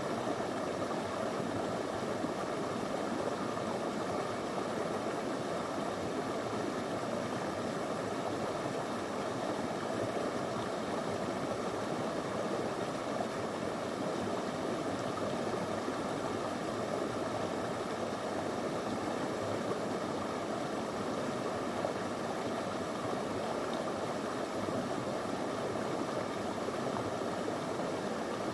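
A small river flowing over stones, with a steady, unbroken rush of water.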